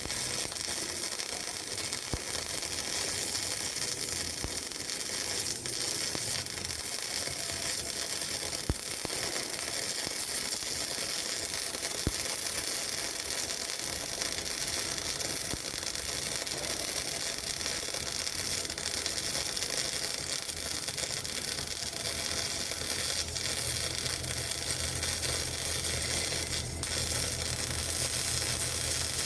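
MIG welding arc sizzling steadily on steel pipe, with a few sharp pops.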